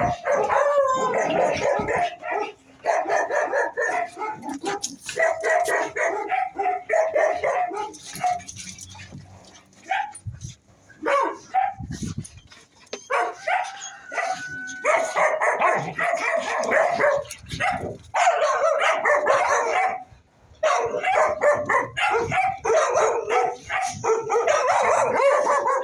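Dogs fighting over rank: snarling, growling and barking in long rough bursts, with a few short lulls.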